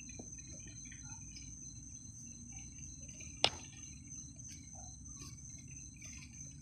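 Crickets trilling steadily in high, unbroken tones over a low steady background noise, with a single sharp click about three and a half seconds in.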